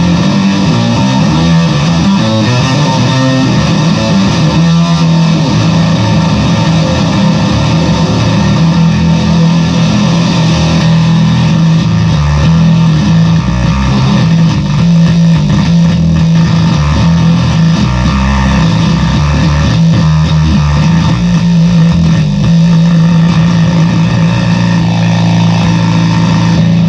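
Fender Squier VI six-string bass played through fuzz pedals: a thick, heavily distorted, sustained sound built on one steady low note, stopping abruptly at the end.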